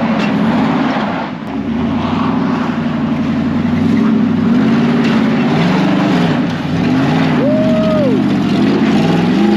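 An off-road vehicle's engine revving up and down repeatedly as it climbs a steep rocky trail obstacle, the driver working the throttle to carry momentum. The pitch swells and drops several times.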